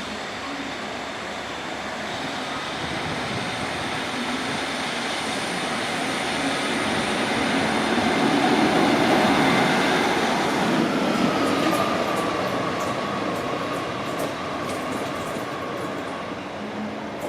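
A train passing on the railway, its running noise building to a peak about halfway through and then fading, with a faint high whine that drops slightly in pitch as it moves away.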